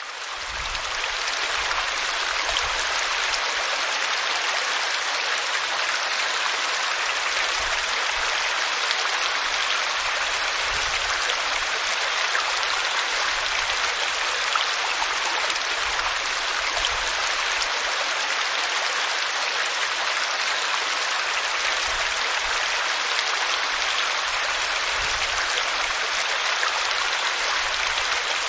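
Waterfall splashing onto rock: a steady rush of falling water that fades in over the first second or so.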